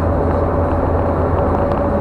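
Car driving on a highway, heard inside the cabin: a steady low rumble of engine and tyres on the road, with a thin steady whine.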